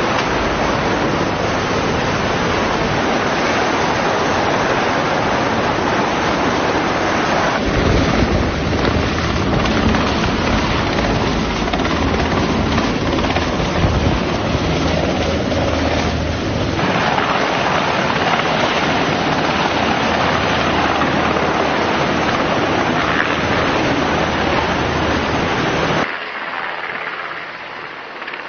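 Loud, steady rushing noise like wind and sea on a microphone. Its character changes abruptly several times, and it drops quieter near the end.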